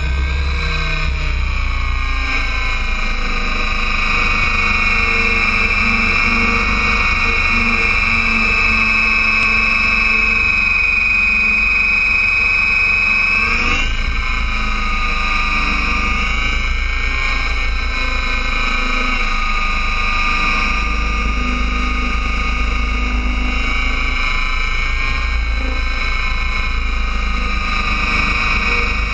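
Align T-Rex 800 radio-controlled helicopter in flight: a steady high whine from its motor and rotor head, its pitch dipping and recovering briefly about halfway through, over a low rumble of wind on the microphone.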